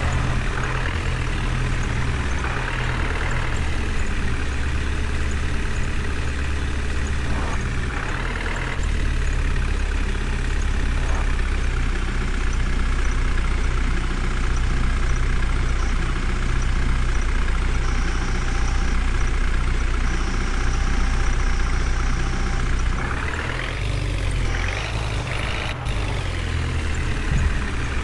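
Heavy vehicle engine running steadily, with a brief rise in pitch like a rev a little over three quarters of the way in.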